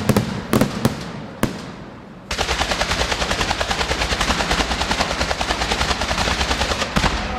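Fireworks display: a few separate sharp bangs, then about two seconds in a rapid, evenly spaced run of cracking reports that goes on for about five seconds and stops near the end.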